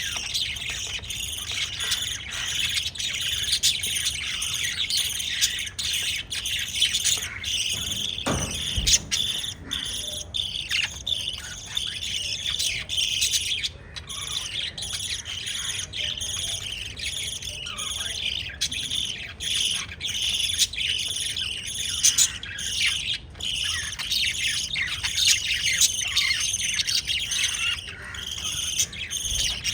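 Pet lovebirds chirping and chattering non-stop, a dense run of short, high chirps, with a brief low bump about eight seconds in.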